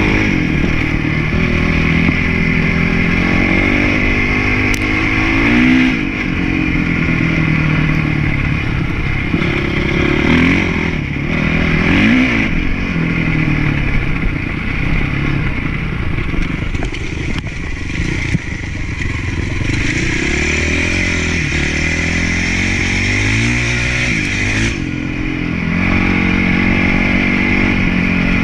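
Honda CRF450 four-stroke single-cylinder motocross bike being ridden hard, its engine revving up and falling back again and again as the rider works the throttle and gears.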